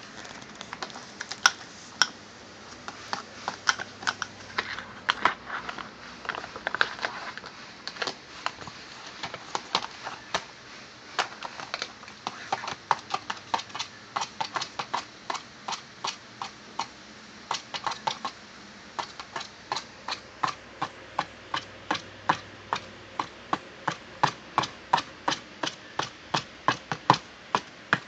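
Kitten clawing and batting at a box: a long run of sharp, light taps and scratches, irregular at first and then coming about two to three times a second.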